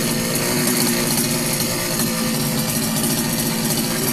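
Rebuilt petrol strimmer engine running steadily as it warms up after a cold start.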